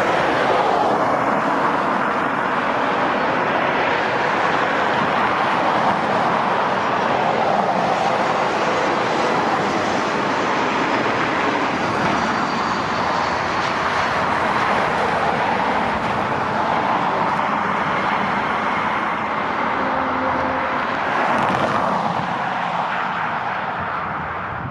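Steady jet noise from a KLM Embraer E195's two turbofan engines as the airliner arrives. Near the end the sound shifts slightly as another airliner's jet noise takes over.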